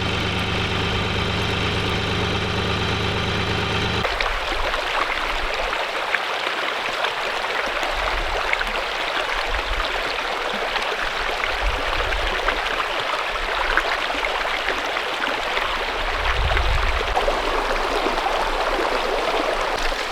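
An engine idling with a steady hum, cut off sharply about four seconds in and replaced by a steady rushing noise with occasional low rumbles.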